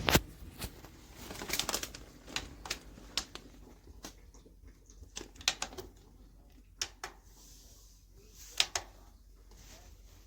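Scattered light clicks and knocks at irregular intervals, a dozen or so, with a sharp click right at the start and a pair of louder ones near the end.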